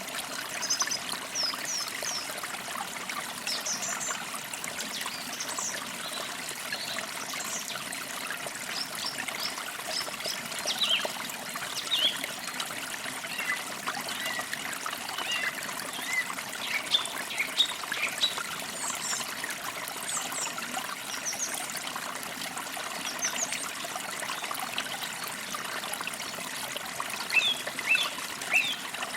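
A forest creek trickling steadily, with small birds chirping throughout in short, high calls, a burst of louder chirps near the end.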